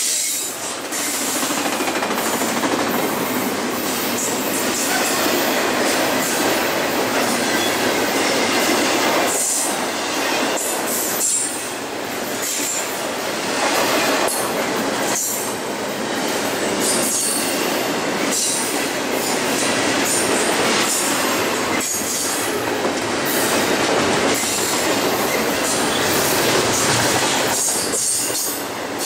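BNSF double-stack intermodal train's container cars rolling past at speed, a loud, steady rush of steel wheels on the rails with clattering, and high-pitched wheel squeal in places.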